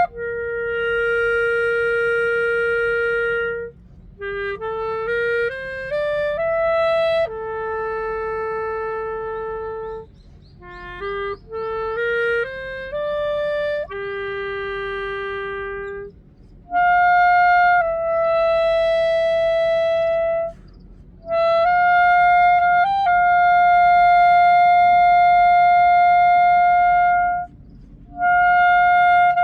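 Solo clarinet playing a slow melody unaccompanied: long held notes joined by quick rising runs, then long high held notes with short breaks for breath between phrases.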